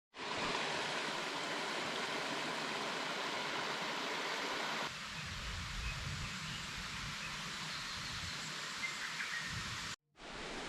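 Steady outdoor background noise with no distinct events, changing abruptly about five seconds in to a different noise with a deeper rumble under a hiss, as from a cut between two shots.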